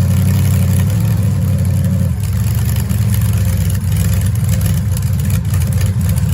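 Large vehicle engine running loudly and steadily with a deep tone.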